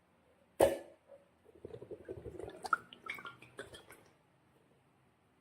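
Slime and balloon handling: one sharp snap about half a second in, then a couple of seconds of small sticky clicks and crackles as the slime is worked.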